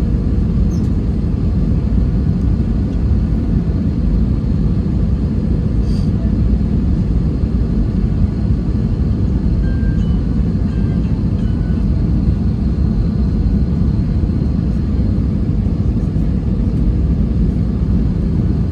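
Airliner cabin noise: a steady low rumble from the engines and airflow, heard inside the passenger cabin.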